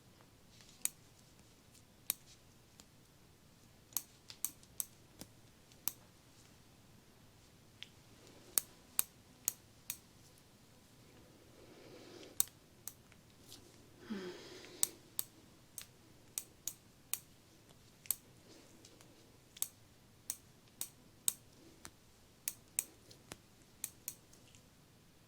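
Sharp, crisp clicks at irregular intervals, some in quick pairs and runs, made as plucking sounds while negative energy is "pulled away" in an ASMR energy-plucking treatment. A soft exhale about twelve seconds in is followed by a louder sigh about fourteen seconds in.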